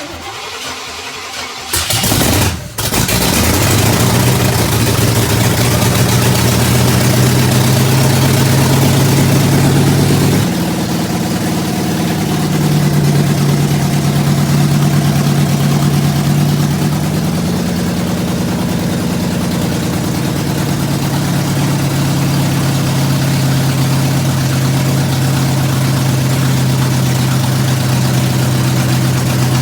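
Oldsmobile 455 big-block V8 on its first start after a rebuild: it cranks on the starter for about two seconds, catches and runs at a fast steady speed. About ten seconds in the engine speed drops, and it holds steady at the lower speed to the end.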